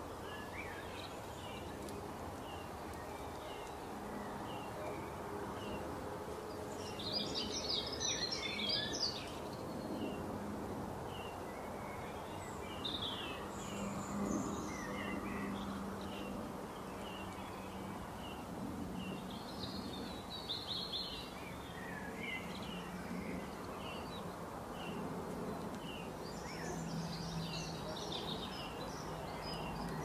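Small songbirds chirping over a steady background hiss: a short high chirp repeats about once a second, and bursts of faster twittering come in at several points.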